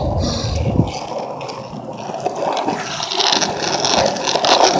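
Skateboard wheels rolling over street pavement: a steady rough scraping noise whose low rumble drops away about a second in.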